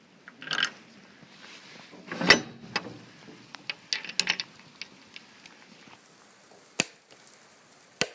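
A series of clicks, knocks and rattles, like gear or a latch being handled: a rattle about half a second in, the loudest knock about two seconds in, a cluster of small clicks around four seconds, then two sharp clicks near the end.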